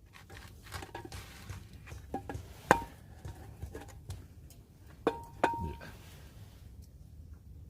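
Metal utensils and cookware clinking during a meal: softer knocks and three sharp clinks, each leaving a short ringing tone. The loudest clink comes about three seconds in, and two more follow close together about five seconds in.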